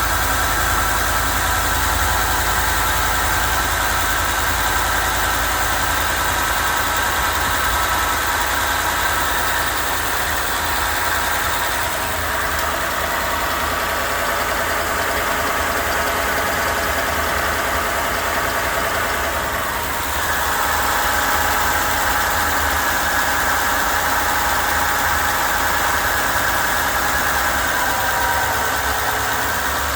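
2014 Ford F-150's 5.0 V8 idling after a cold start, with a steady high-pitched squeal over the engine's rumble; the squeal's pitch shifts slightly about twelve and again twenty seconds in.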